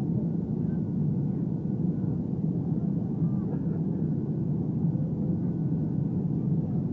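Steady low rumble of an Airbus A320's engines and rushing air, heard inside the cabin, with a faint steady tone above it.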